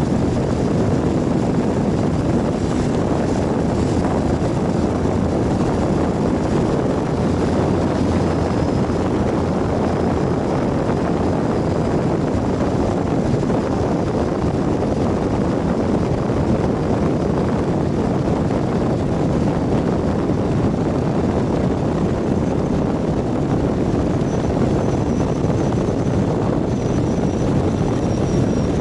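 Ural 750 motorcycle under way: its flat-twin engine running with steady wind and road noise at an even cruising speed.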